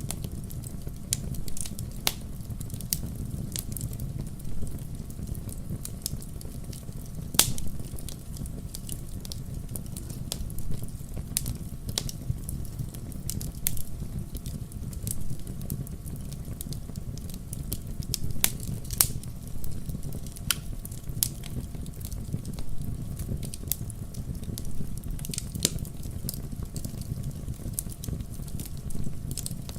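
Logs burning in a fireplace: a steady low rumble of flame with irregular sharp crackles and pops from the wood. A louder pop comes about seven seconds in, and a few more come a little past the middle.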